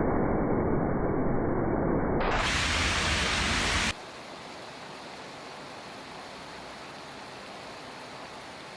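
Steady rushing noise of heavy rain, broken by two abrupt changes: a muffled rumble for about two seconds, then a brief louder hiss, then a quieter, even hiss from about four seconds in.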